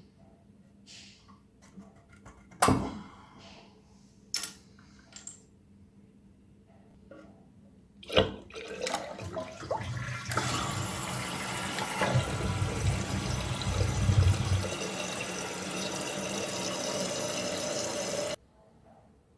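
A few clicks and knocks, then a sharp clunk about eight seconds in as a toilet is flushed with its tank lever. Water rushes loudly for about ten seconds, with a low rumble in the first half, then cuts off suddenly.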